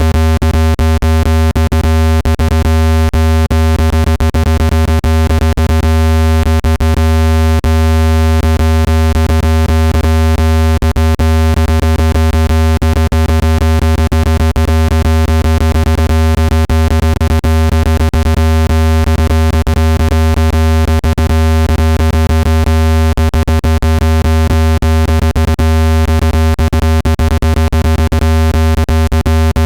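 Loud, steady, low-pitched electronic tone with many overtones, broken by frequent brief clicks: a speaker dust-cleaning tone, played at full volume to vibrate a phone speaker's membrane and shake dust loose.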